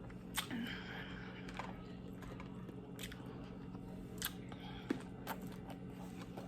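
Quiet eating sounds: chewing with about half a dozen scattered short mouth clicks and smacks over a low steady hum.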